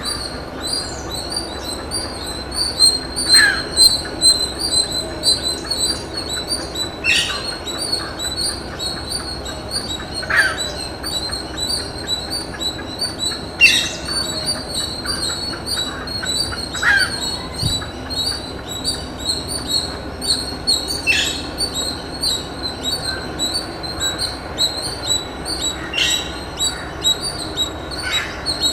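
A steady, shrill insect chorus of rapid pulsing, with a bird repeating a short falling call about every three to four seconds.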